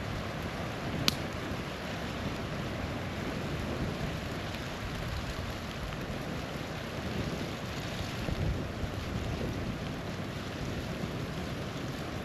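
Small waterfall rushing steadily, with a campfire crackling over it; one sharp pop from the fire about a second in.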